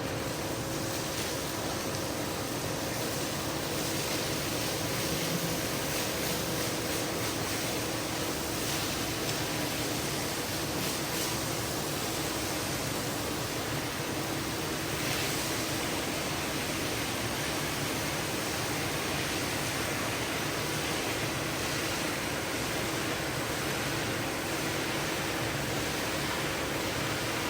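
Steady hiss of carpet-cleaning equipment running, with a faint steady hum underneath.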